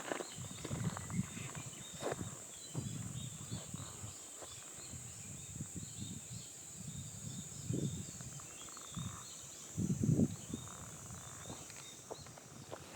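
Footsteps outdoors, uneven thuds and crunches at a walking pace, the loudest about ten seconds in. Behind them is a steady high-pitched drone with faint high chirps.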